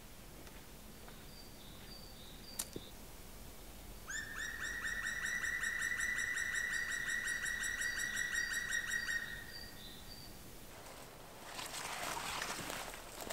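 A bird calling a fast run of clear, evenly repeated notes for about five seconds, with faint higher chirps from another bird before and after. A sharp click comes early, and near the end a rustling noise starts.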